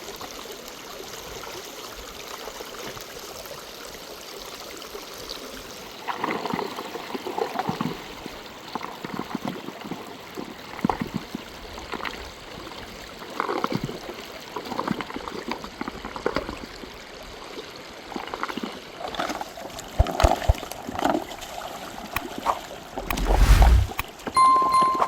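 River water flowing steadily, with irregular splashing and gurgling starting about six seconds in and a heavy thump near the end.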